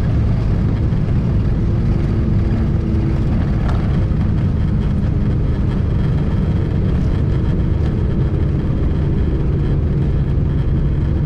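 Cessna 402's twin piston engines droning steadily, heard from inside the cockpit.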